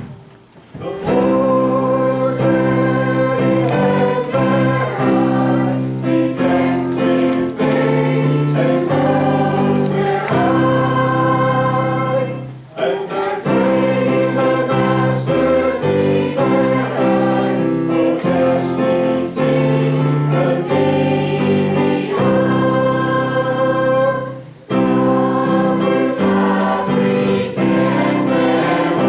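Choir singing with musical accompaniment. The music starts about a second in and stops briefly twice between phrases.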